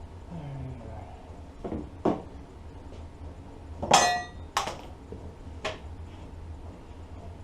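Metal tools or parts clanking against metal in a series of about five sharp knocks, the loudest about four seconds in with a short metallic ring.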